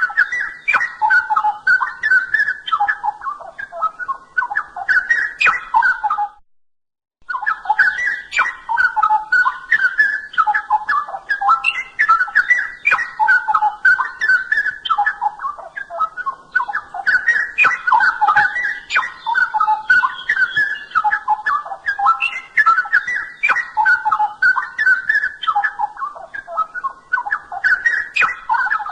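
Straw-headed bulbul (cucak rowo) singing a loud, continuous, bubbling warble of quick rich phrases, broken by about a second of silence some six seconds in.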